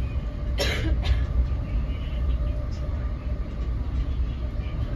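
Interior of an NJ Transit Multilevel bilevel coach running at speed: a steady low rumble of wheels on rail, with a brief hiss a little over half a second in.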